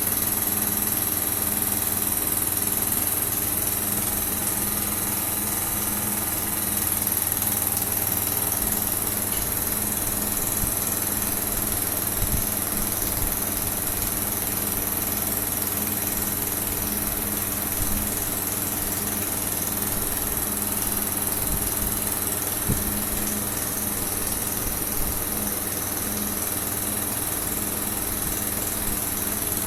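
Nd:YAG laser welding machine running: a steady mechanical hum with a constant high-pitched whine, and a few faint ticks scattered through.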